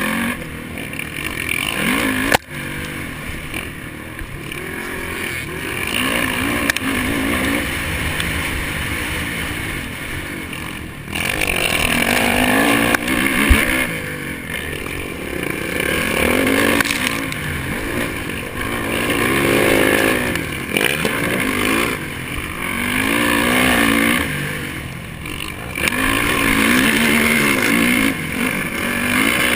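Honda 450 motocross bike's single-cylinder four-stroke engine under hard throttle, revving up and dropping back over and over as the rider accelerates and backs off, with a sharp knock about two seconds in.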